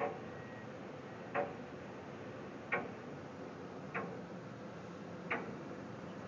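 Construction-site knocks: five sharp single impacts repeating about every second and a half over a steady background noise.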